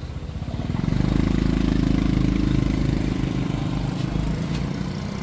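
A small engine running with an even firing pulse, getting louder about a second in and then slowly easing off.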